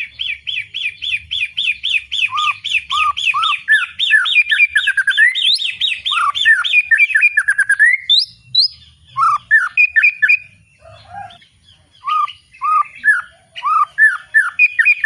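White-rumped shama singing loudly: a fast run of repeated chirps, about five a second, then varied whistled phrases that rise and fall, with a brief pause a little past the middle before the song picks up again.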